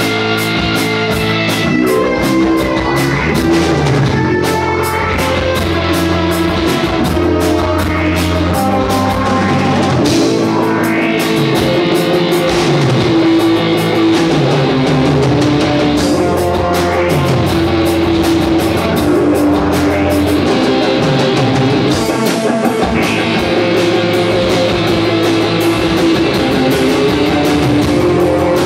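Rock band playing, with guitar and a drum kit.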